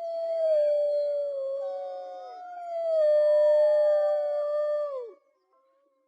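Wolves howling in chorus: several long, overlapping howls at different pitches, held nearly level with slow glides. The howls break off together with a falling note about five seconds in.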